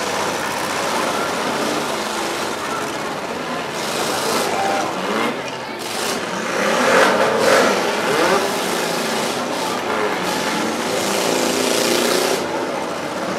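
Six- and four-cylinder demolition derby cars' engines revving as they run and collide, with crowd voices mixed in; the engines swell loudest about seven seconds in.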